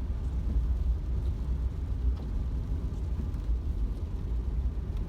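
Steady low rumble with no distinct events, of the kind heard inside a moving vehicle.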